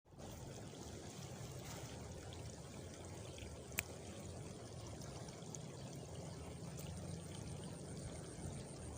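Steady rush of running water, with a faint high cricket trill coming in near the end and a single sharp click about four seconds in.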